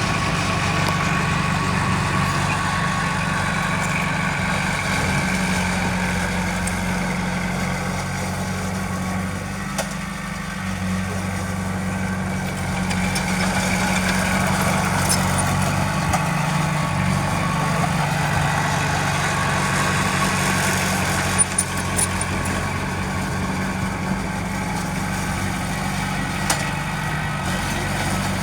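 Heavy diesel engine of earthmoving machinery running steadily, with a few short sharp clicks about three-quarters of the way through.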